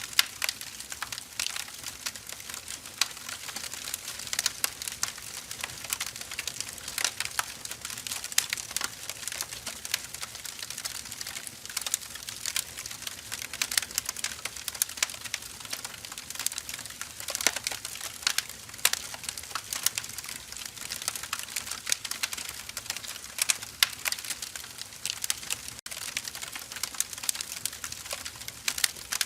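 Firewood burning, crackling steadily with many small irregular pops and snaps over a soft hiss.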